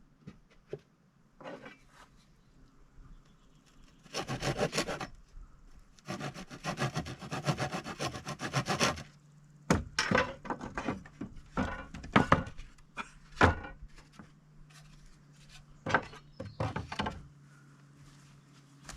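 A hand tool scraping across wood in quick, even strokes: a short run, then a longer one of about three seconds, followed by scattered knocks and clicks of wooden pieces being handled.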